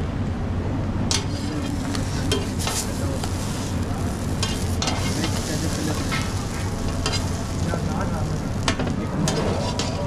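Anda shami burger fillings (shami kebab and egg) sizzling and frying on a hot flat griddle. Frequent sharp clicks and scrapes of a metal spatula against the pan run through the frying.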